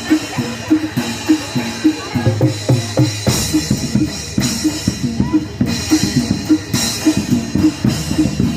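Barongan gamelan accompaniment: fast hand-drum (kendang) strokes driving a quick, repeating figure on pitched metal percussion. About three seconds in the drumming gets heavier, with a sharp high hit about once a second.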